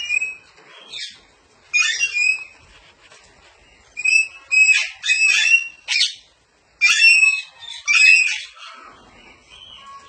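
Parrot calling in repeated short, harsh squawks that come in bursts, the densest run between about four and eight seconds in, then trailing off near the end.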